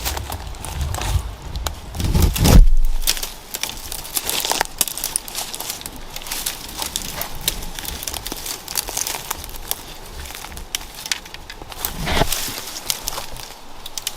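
Footsteps crunching through dry leaf litter and brush, twigs and dead leaves crackling in an irregular run of clicks, with a louder low rumble about two and a half seconds in.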